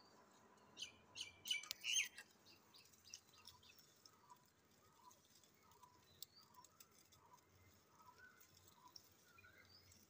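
Faint bird calls: a quick burst of high chirps about a second in, then soft short notes repeated about twice a second.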